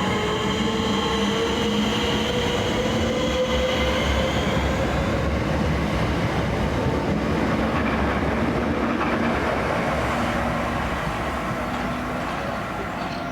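Southeastern electric multiple unit passing at the platform, its motors whining with a rising pitch over the first few seconds under the steady rush of the train running on the rails. The sound eases off near the end as it moves away.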